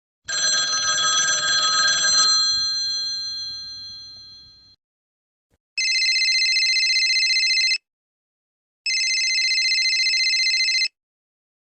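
A bell rattles for about two seconds and then rings out. It is followed by two telephone rings of about two seconds each, a second apart, in the on-off pattern of a ringing phone.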